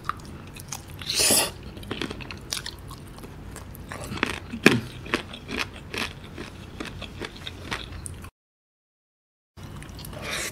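Close-miked mouth sounds of a man eating chicken and rice with his hands: wet chewing, lip smacks and sucking at a chicken bone, in irregular clicks. A louder smack comes a little after a second in, and the sound cuts out completely for about a second near the end.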